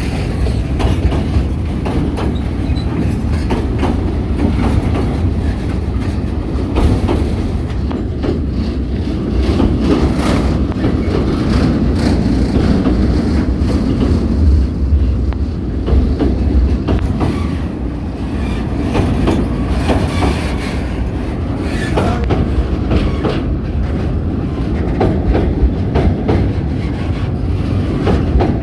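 Train running along the track with a steady low rumble, its wheels clicking over the rail joints again and again.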